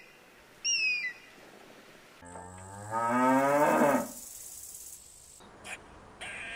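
A bird of prey gives one short screech with falling pitch about half a second in, then a cow gives one long moo, rising and then dropping off, from about two seconds in to about four.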